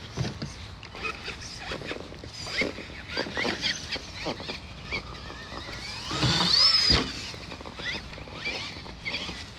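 Electric motor of an Axial RC monster truck whining as it speeds up, the pitch rising about six seconds in and holding for about a second, amid scattered short clatter.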